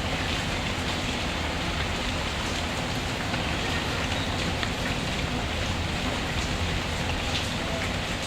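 Steady rain falling, a continuous hiss with a low rumble beneath it, and scattered small crackles from a wood fire in a fireplace.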